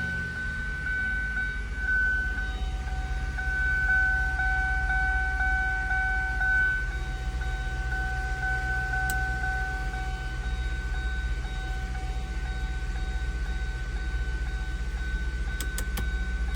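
Ford Thunderbird engine idling steadily on a cold start, a low even rumble with a steady high-pitched whine over it. A few light clicks come near the end.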